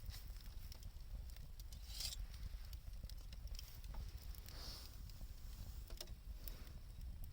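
Wood fire burning, with scattered crackles and pops, two short hisses and a steady low rumble underneath.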